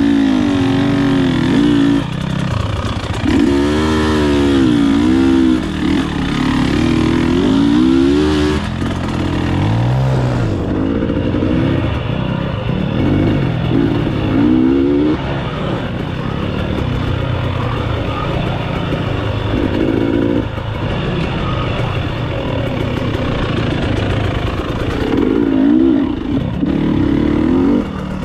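Enduro motorcycle engine revving up and down as the bike is ridden off-road, its pitch rising and falling with the throttle over and over.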